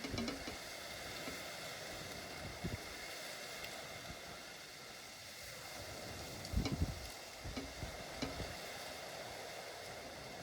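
Steady hiss of falling rain, with a few soft low thumps.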